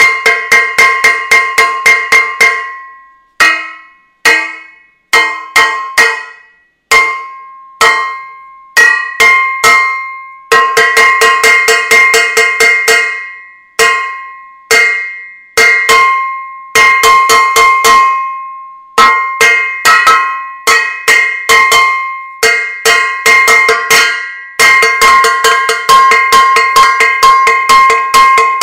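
A metal saucepan being struck over and over, each blow a ringing clang. The blows come in fast runs of about five a second, broken by stretches of single, spaced hits that ring out between strokes.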